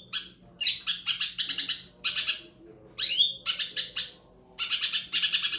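Eurasian tree sparrows chattering in quick bursts of chirps, the agitated calls of sparrows fighting. The chirps come in clusters with short gaps between them, and a rising swooping note about three seconds in.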